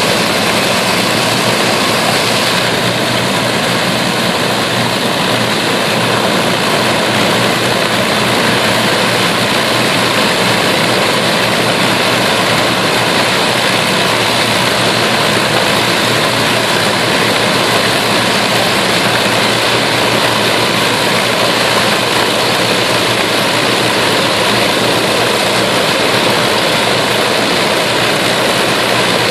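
Avro Lancaster's Rolls-Royce Merlin V12 piston engines running loud and steady, with propeller and exhaust noise and a steady low drone.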